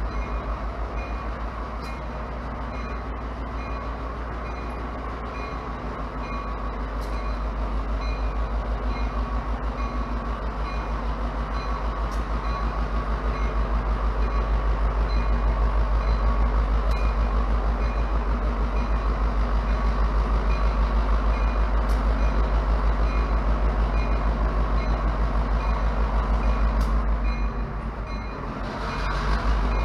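Model diesel locomotive's sound decoder playing a steady diesel engine drone with a low, pulsing rumble, easing off briefly near the end.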